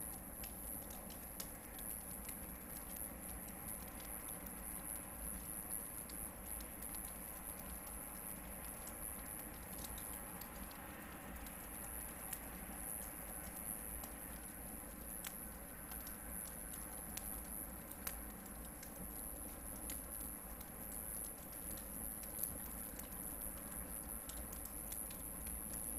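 Hardwood campfire burning, with scattered, irregular crackles and pops from the logs over a low steady hiss.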